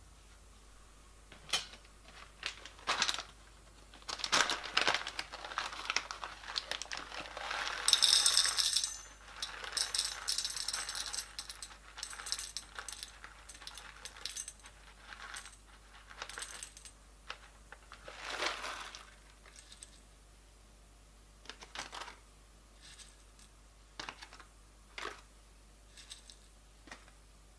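Irregular clicks, rattles and clinks of a Timemore coffee grinder and coffee beans being handled, with a loud jangling burst about eight seconds in and sparser clicks later on.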